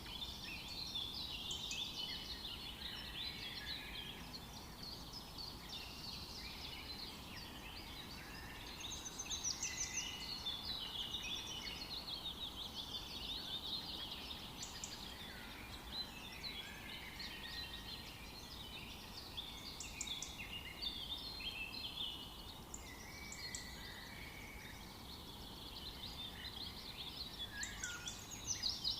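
Many small birds chirping and singing at once, a dense overlapping chorus of short, high calls and trills that never stops.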